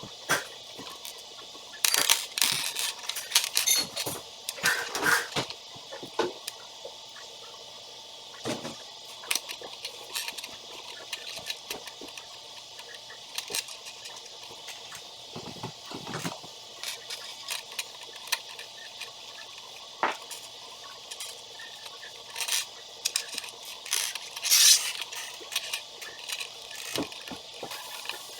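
Small construction-toy pieces clicking and clattering as they are handled and fitted together by hand, in irregular bursts of sharp clicks and rattles, busiest a couple of seconds in and again near the end.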